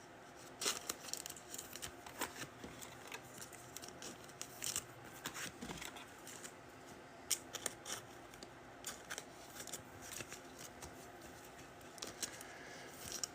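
Faint, irregular light clicks and rustles of trading cards and their foil pack wrappers being handled.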